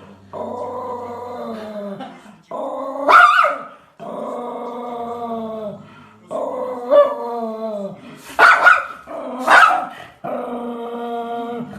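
Golden retriever puppy vocalising: long, drawn-out growling whines broken by three sharp barks, the loudest about three seconds in and twice near the end.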